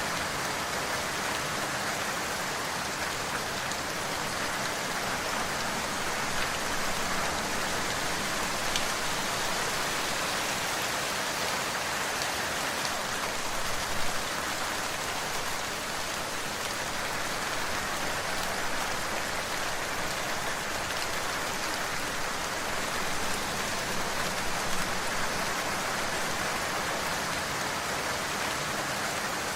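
Steady rain falling, with a dense, even hiss and a few scattered drop ticks.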